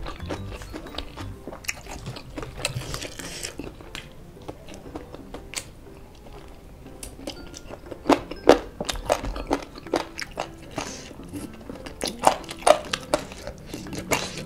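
Close-miked chewing and crunching of crispy fried chicken with kremes flakes, eaten by hand. The loudest crunches come in clusters about eight seconds in and again around twelve seconds, as a chicken bone is gnawed.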